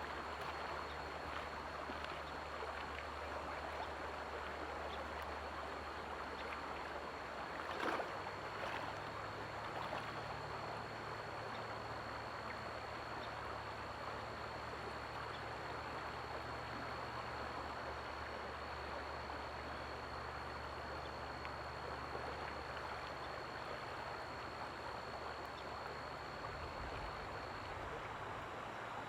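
Steady rush of running water from a stream, with a thin, steady high tone that stops near the end.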